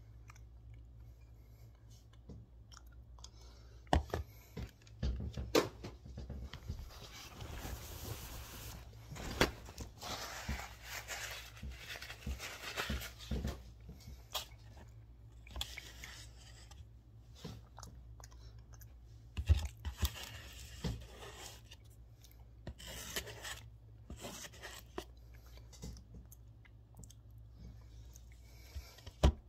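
A person eating and chewing food close to the microphone, with irregular mouth sounds and scattered clicks and knocks from a spoon and dish.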